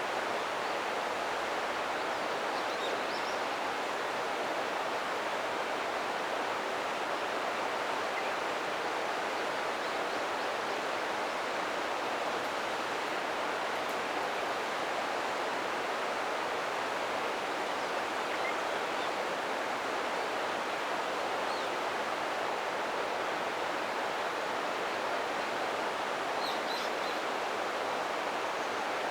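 Ōta River water rushing steadily over rocks, an even, unbroken flow, with a few faint high chirps, clearest near the end.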